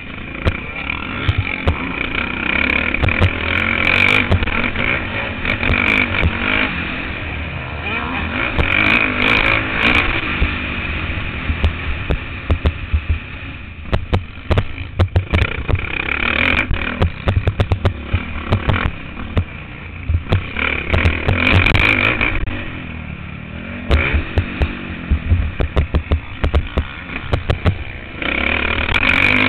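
Motocross bike engine heard from a camera on the bike, repeatedly revving up and easing off with the throttle. Runs of sharp knocks and rattles come through, the densest near the end.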